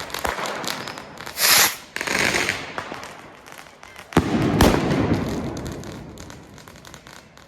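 Salute rocket (cohete trueno) going off: a short loud hiss, then about four seconds in a sharp bang whose echo rumbles away over a few seconds. Scattered small firework pops and crackles sound throughout.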